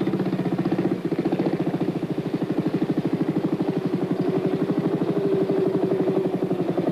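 Trials motorcycle's single-cylinder engine running with an even, rapid beat, the revs lifting a little about five seconds in, as it is ridden over a stony section under careful throttle control.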